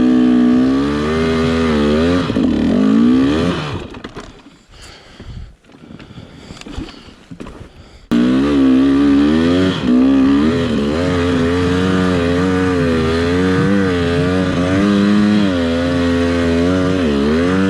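Dirt bike engine running with the revs rising and falling. It drops away to a much quieter stretch about four seconds in, then comes back abruptly near eight seconds and keeps going with the throttle varying.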